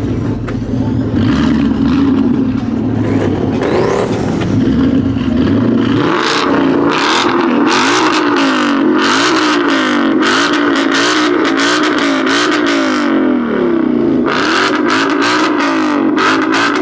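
A car engine at a steady idle, then revved up and down over and over from about six seconds in, with sharp crackles from the exhaust on each rev.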